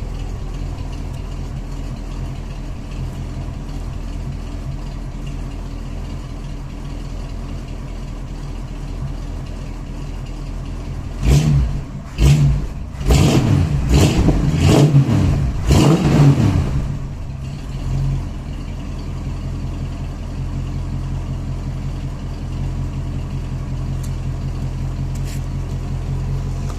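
1966 Ford Mustang's 289 V8 running through a Magnaflow exhaust: a steady idle, then about eleven seconds in a quick run of about six throttle blips, each rising and falling, before it settles back to idle.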